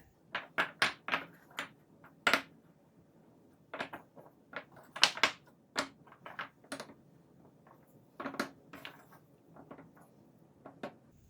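Toy building blocks being stacked into a tower by hand: a series of irregular sharp clacks and knocks as pieces are set down on one another, with short pauses between clusters.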